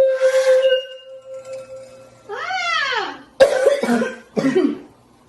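A boy's loud sung note breaks off in a noisy gasp, leaving a thin tone that fades out. A voiced whoop rises and falls in pitch, then he coughs several times, hoarse from straining his voice at a wine glass.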